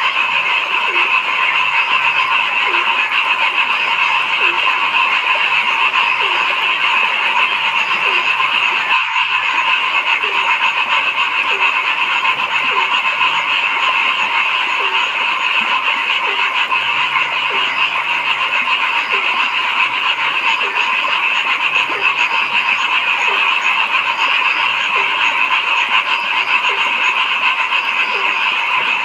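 A dense, steady chorus of frogs calling. Through it, one frog repeats a short lower note about every three-quarters of a second.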